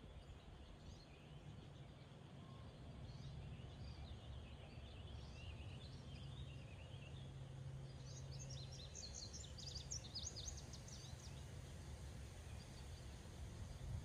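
Faint wild birdsong in a meadow: scattered high chirps from several birds, then a rapid chattering run of high notes about eight seconds in, lasting a few seconds. A steady low background rumble runs underneath.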